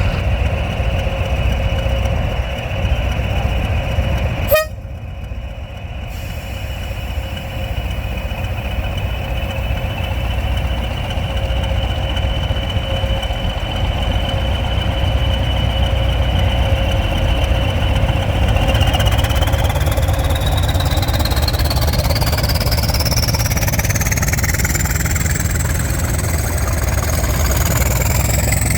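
Diesel locomotive engine running with a deep rumble and a high whine, with one sharp click about five seconds in. The whine holds one pitch, then in the last third rises steadily as the engine powers up.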